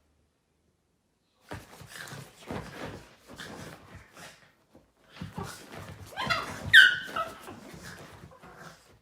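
A pet animal making a run of short vocal sounds. The loudest is a high-pitched yelp about two-thirds of the way through.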